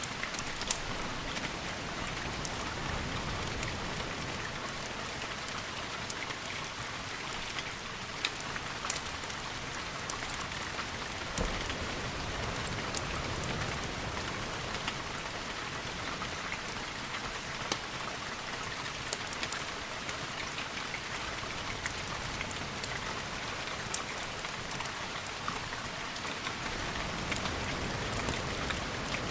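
Steady rain falling, with scattered sharp pops and ticks over the hiss and a soft low rumble beneath.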